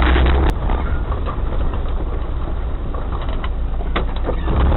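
An off-road 4x4 vehicle's engine runs with a low rumble that drops in level about half a second in. Scattered knocks and clatter sound through the rest.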